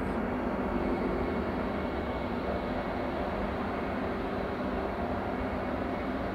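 Vande Bharat Express electric trainset running past at a distance: a steady rumble of wheels on rail with a faint hum.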